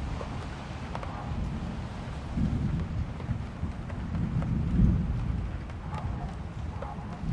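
Thunderstorm: steady rain with rolling thunder rumbling low, swelling about two and a half seconds in and again near five seconds.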